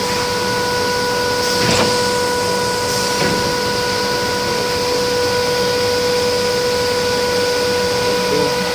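Glass-cutting machinery running with a steady whine and hiss, with a knock about two seconds in and a lighter one about a second later.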